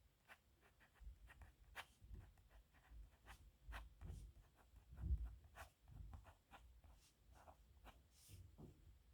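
Pen writing on paper: a quick, irregular run of short, faint scratching strokes with soft low thuds among them.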